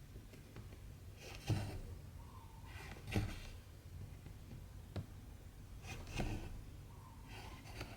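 Needle and cotton thread pulled through 14-count cross-stitch fabric: a soft rasping swish with a light thud about every second and a half, four pulls in all, and a small click in between.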